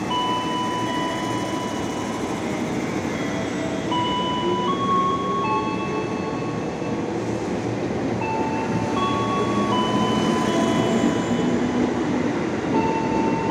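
KRL Commuter Line electric train running through the station: a steady rumble of wheels on rail, with high steady tones that shift to a new pitch every second or so.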